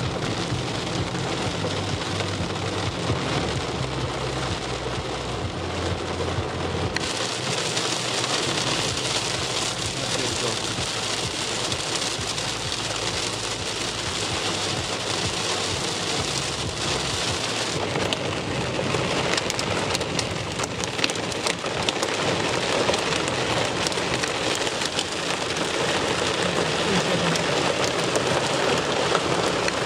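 Heavy thunderstorm rain falling and pattering steadily.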